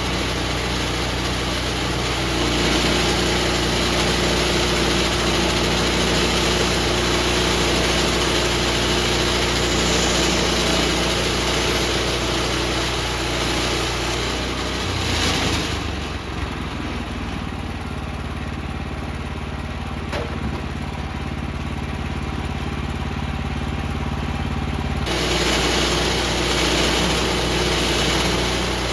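Woodland Mills HM126 band sawmill's gas engine running steadily, with a hiss of the blade cutting through a hard red oak log. Just past the middle the hiss drops away abruptly and the engine note shifts for about nine seconds, then the cutting sound returns just as suddenly.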